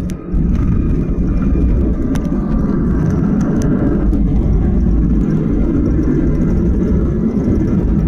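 Loud, steady cabin rumble of a Boeing 737-800 with CFM56-7B engines during landing, heard from a passenger seat; it steps up suddenly a moment in.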